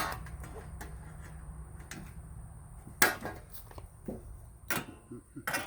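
A few sharp knocks and small clatters of objects being handled, the loudest about three seconds in, over a low steady hum.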